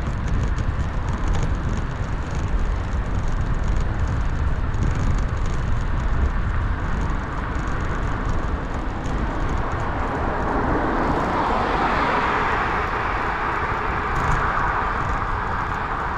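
Steady wind rumble on the microphone and tyre noise from a bicycle being ridden, with a rising wash of noise in the second half.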